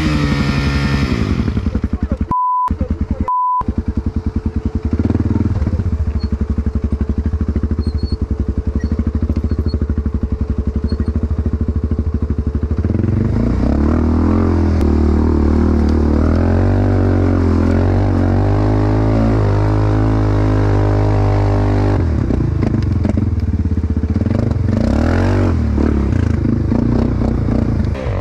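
Straight-piped dirt bike engine ticking over with a rapid, even exhaust pulse, then revved up and held at higher, wavering speeds for several seconds in the middle, with another quick rev near the end. Two short electronic beeps cut in a few seconds in.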